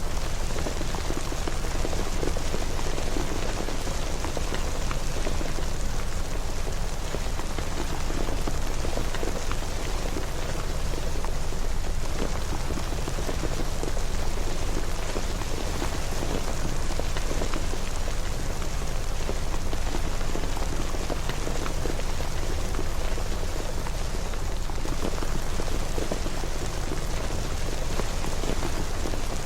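Steady rain: a dense, even patter of drops that neither builds nor eases, with a low rumble underneath.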